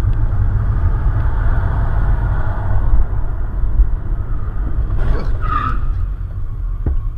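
Car on the road heard through a dashcam: a steady low rumble of engine and tyres. A brief high-pitched sound cuts in about five and a half seconds in.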